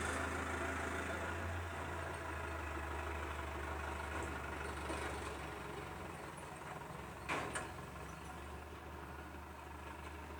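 Scania tipper truck's diesel engine idling steadily, with two short knocks about seven seconds in.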